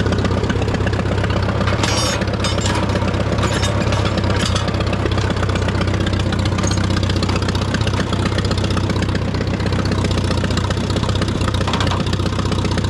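Farmall A tractor's four-cylinder gasoline engine idling steadily, warmed up and off choke. A few short clicks or rattles come through around two seconds in and again near the middle.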